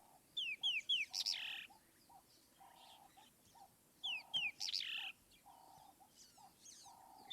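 Wild birds calling: one bird repeats a phrase of three quick falling whistles followed by a buzzy note, about a second in and again about four seconds in, while short lower notes from another bird come through in between.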